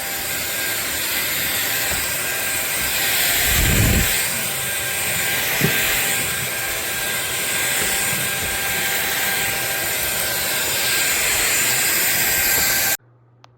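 SunSare X7A cordless stick vacuum cleaner running steadily: a motor whine over a rushing airflow hiss, with a dull bump about four seconds in. The sound cuts off suddenly near the end.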